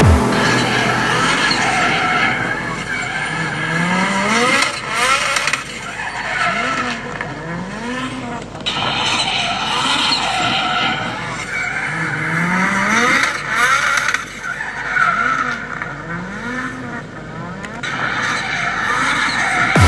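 Drift car sliding with its tyres squealing, the engine revving up and down again and again as the throttle is worked through the slides.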